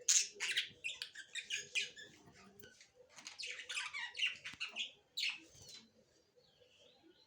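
Lovebirds squawking and chirping in rapid, harsh bursts, a busy chatter that dies down to a few faint calls about six seconds in.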